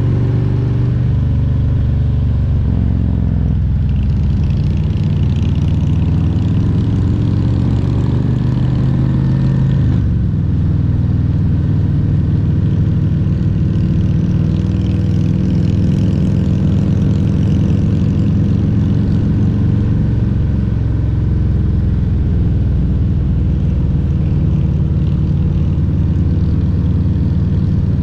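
Harley-Davidson Road Glide Special's Milwaukee-Eight 114 V-twin running under way, a steady low engine note whose pitch shifts about a third of the way through.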